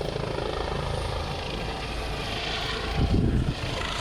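Helicopter running steadily, its rotor and engine noise carrying a strong low rumble, with a brief louder surge about three seconds in.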